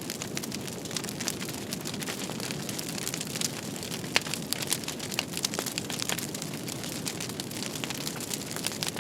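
Fire crackling in a fireplace: a steady hiss with many irregular sharp pops and snaps, one louder pop about four seconds in.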